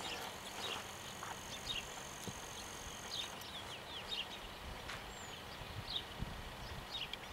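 Open-air ambience with small birds chirping, many short falling chirps scattered throughout, over a low wind rumble on the microphone. A thin steady high tone runs through the first three seconds or so.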